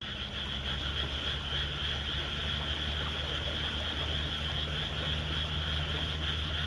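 A steady low hum with a constant high whine over a soft hiss, from a small motor running evenly.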